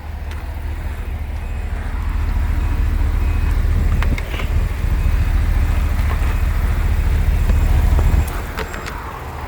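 Isuzu reefer box truck's engine running, a steady low rumble that builds slowly and then drops off about eight seconds in.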